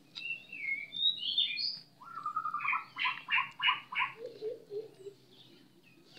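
A bird calling: a few falling whistled notes in the first two seconds, then a fast run of chirps, about five a second, lasting about two seconds.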